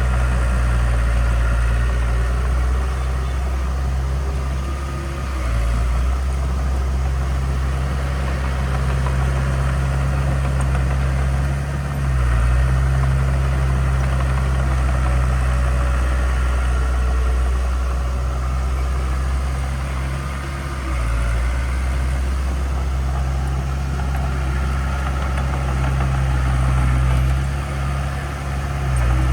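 Diesel engine of heavy earthmoving equipment running steadily with a deep note. The note shifts briefly a few times, about every six to nine seconds.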